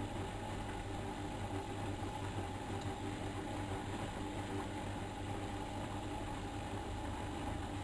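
Miele Novotronic Meteor 2200 washing machine running steadily during a 95 °C boil wash: a constant motor hum with a few steady tones.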